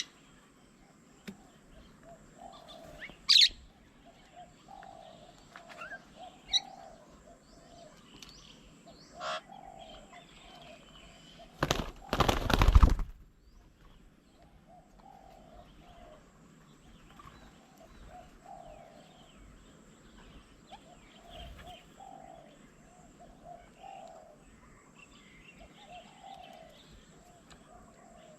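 Doves cooing over and over in low, soft phrases, with a loud burst of wing flapping about twelve seconds in. A few short, sharp chirps come in the first ten seconds.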